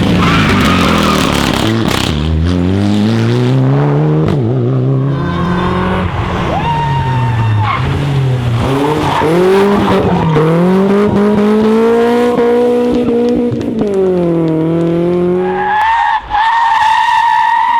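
Rally car engine driven hard, its pitch climbing as it accelerates and dropping back at each gear change, several times over. Near the end a steady high squeal takes over.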